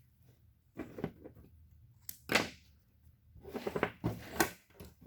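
A car engine wiring harness being handled and bundled by hand: a few short rustles and knocks of wires and plastic, the loudest a little past two seconds in, then a brief cluster near the end.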